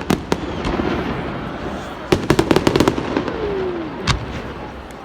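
Fireworks going off: sharp crackling bangs over a continuous rumble, with a rapid string of cracks about two seconds in.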